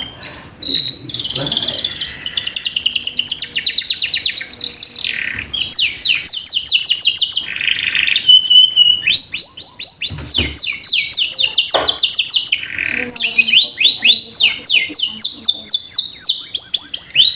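Domestic canary singing: fast trills of rapidly repeated sweeping notes, switching to a new note pattern every second or two.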